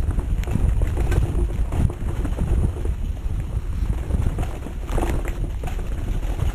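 Mountain bike riding down a dirt trail: wind rushing over the microphone, with tyre noise and frequent knocks and rattles as the bike goes over bumps.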